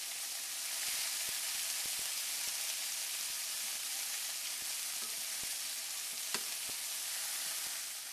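Flour-dredged chicken strips sizzling steadily in hot vegetable oil in a sauté pan over medium-high heat, with a few faint clicks.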